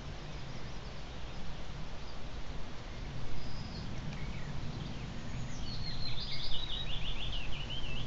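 Small bird singing: a brief high whistle about three and a half seconds in, then a quick run of repeated notes over the last two seconds, over a steady low background rumble.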